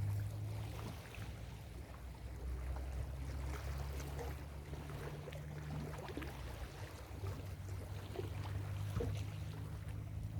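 Ocean surf washing and fizzing on the shore, with a low steady hum underneath.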